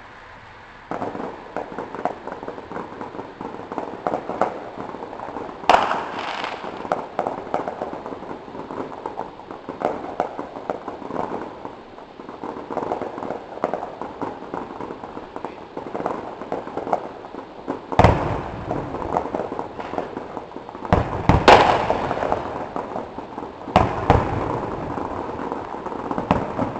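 Fireworks finale barrage: dense rapid crackling and popping starting about a second in, with several louder bangs standing out.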